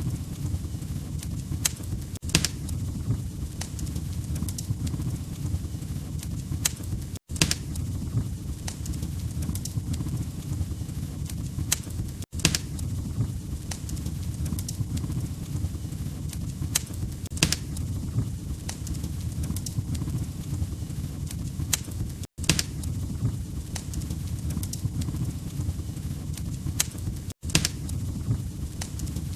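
Log fire crackling: a steady low rumble with sharp, irregular pops and snaps of burning wood. Brief silent gaps cut in about every five seconds.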